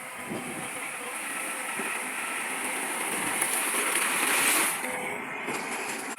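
Loose stones pouring and sliding from a dump load, a gritty rushing noise that swells about four seconds in and eases off before five seconds.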